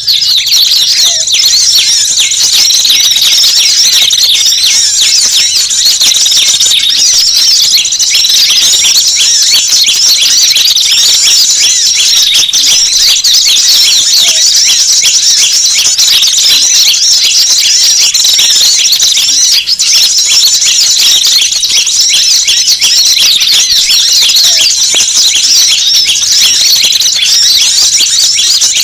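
Dense, unbroken chorus of rapid high-pitched chirps and twitters from several kinds of small wild birds, played as a lure recording to attract small birds.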